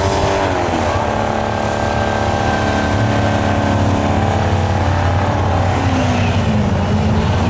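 Mercedes-Benz 380 SEL's V8 held at high revs while it spins its rear tyres in a burnout. The engine note stays steady, then dips and climbs back up near the end.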